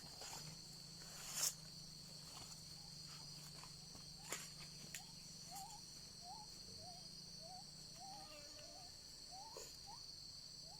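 Forest insects shrilling in a steady high-pitched drone, with a couple of sharp clicks in the first half. From about halfway, a string of short chirping notes repeats about twice a second.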